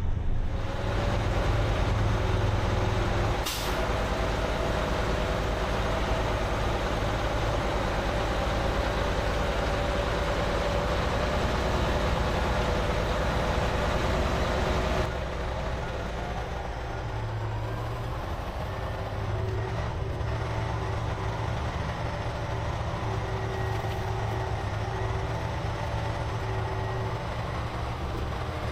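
Heavy diesel truck engine running steadily, with a brief sharp hiss or click about three and a half seconds in. The engine sound drops and turns lower from about fifteen seconds in.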